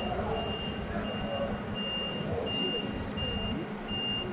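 Truck reversing alarm beeping steadily, about three high beeps every two seconds, over the low running of the engine.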